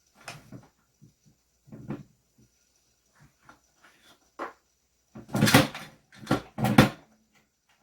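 Pen parts being handled and fitted together during assembly: scattered light clicks and knocks, then three louder clattering knocks in quick succession a little past the middle.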